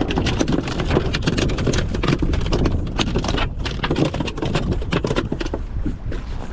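Rapid, irregular knocking and tapping, several knocks a second, over a steady low rumble of wind on the microphone.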